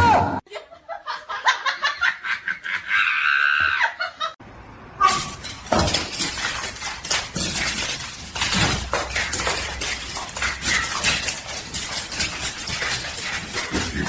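Rapid clattering and scraping, a dense run of many quick knocks, starting about four and a half seconds in after a few scattered ticks.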